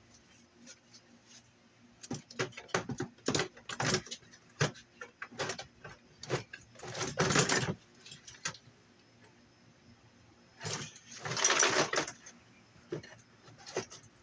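Metal scrap parts and hand tools being handled on a workbench: scattered clicks and clinks, with two longer bursts of clatter about seven and eleven seconds in.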